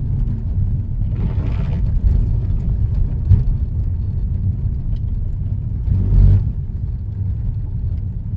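Road and engine noise inside a moving car's cabin, a steady low rumble, with a louder thump about six seconds in.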